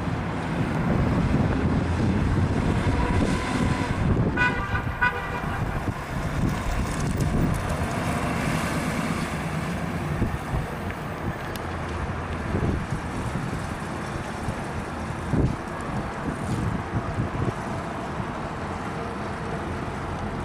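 1957 Chevrolet Sedan Delivery's 350 cubic-inch Chevy small-block V8 running as the car drives slowly at low speed. A quick run of high beeps sounds about four seconds in, and a single thump about fifteen seconds in.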